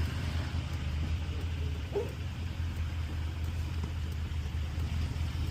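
Motor vehicle running on the road: a steady low engine and road drone, with one brief rising squeak about two seconds in.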